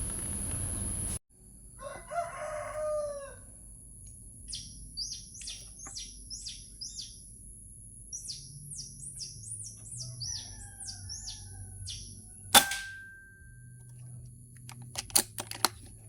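A rooster crows once about two seconds in, then a small bird repeats quick, high, downward-sweeping chirps for several seconds. About three-quarters of the way through comes a single sharp crack with a short ringing tail, an air rifle shot, and a few sharp clicks follow near the end.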